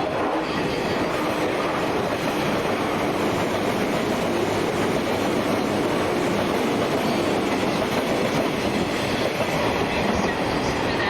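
Electric passenger train running through a station platform, with steady wheel-on-rail noise.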